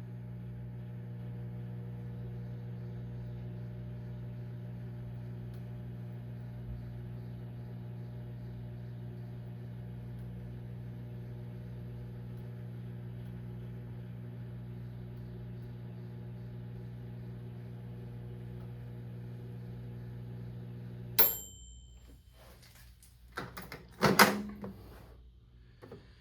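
Microwave oven running with a steady hum, cutting off about 21 seconds in with a short beep as the one-minute cycle ends, followed by a few clunks and clicks.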